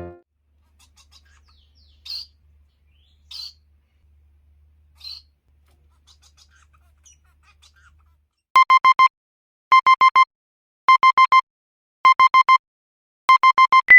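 A few faint bird chirps, then, from about halfway, a loud electronic beeper sounding in quick groups of four beeps, with the groups repeating a little more than once a second.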